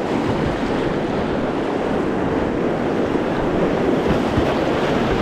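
Steady rush of whitewater in a creek rapid, close to a GoPro microphone, with some wind noise on the mic; it grows a little louder toward the end.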